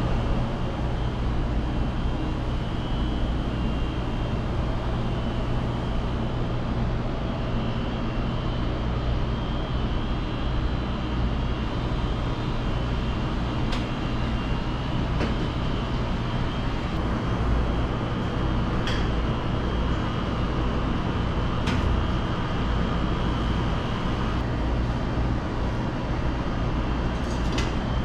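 Steady mechanical hum and whir of commercial kitchen machinery, with a few short sharp clicks or clinks in the second half.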